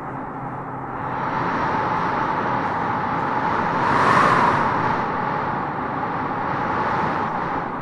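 Wind blowing in a steady rush that swells into a stronger gust about four seconds in, then eases back.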